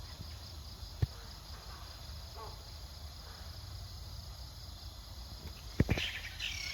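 Insects droning steadily and high in the background, with a sharp knock about a second in and two louder thumps near the end, followed by a short high call.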